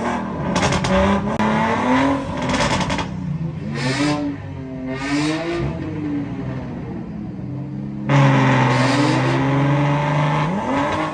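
Car engines revving repeatedly, the note rising and falling with each blip, with crackle over the revs. About eight seconds in, a louder, steadier engine note suddenly takes over.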